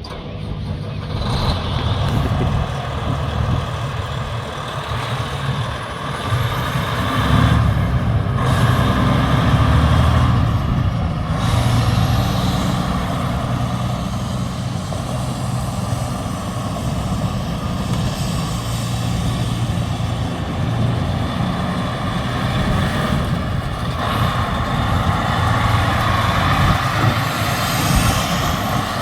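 2005 Freightliner Columbia semi truck's diesel engine running, its sound swelling and easing off several times, with a faint high whine gliding upward now and then.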